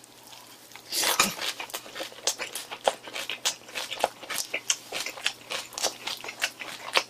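Close-miked chewing of a big mouthful of boiled pork wrapped in kimchi: wet mouth clicks and smacks, several a second, starting about a second in.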